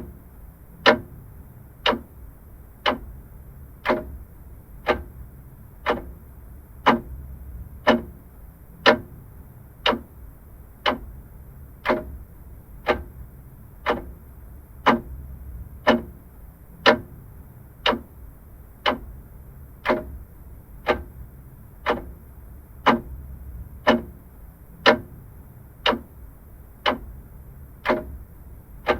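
Vintage mechanical clock ticking steadily, about one tick a second, in an even tick-tock over a faint low hum.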